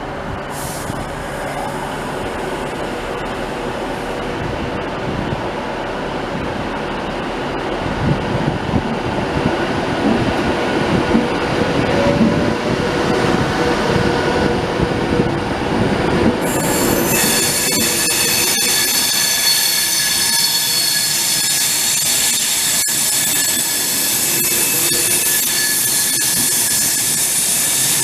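A train moving through with a low rumble, then from about halfway its wheels squeal against the rails in several high, steady tones.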